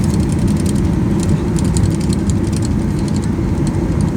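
Airliner cabin noise during departure: a loud, steady low rumble of engines and airframe, with many light rattling clicks.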